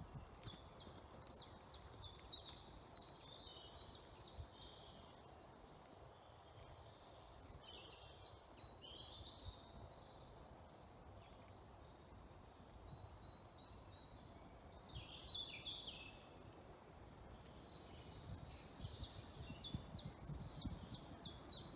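Woodland songbirds singing, quiet overall: fast runs of high repeated notes and trills at the start and again in the last few seconds, with a calmer stretch in between.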